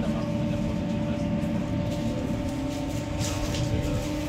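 Electric commuter train heard from inside the carriage while moving: a steady rumble of wheels on rail under a constant electric hum. A brief rush of hiss about three seconds in.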